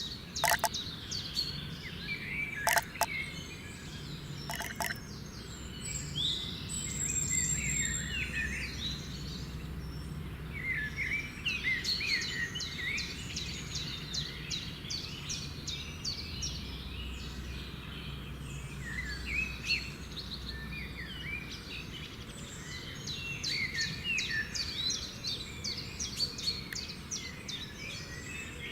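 Several birds chirping and singing over a steady low background noise, with three sharp clicks in the first five seconds.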